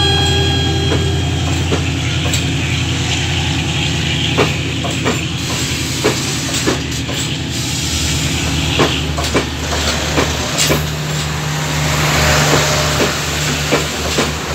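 Class S13 diesel-electric multiple unit coaches rolling past close by: a steady low rumble and hum with irregular sharp wheel clicks over the rail joints. A pitched tone fades out about a second in.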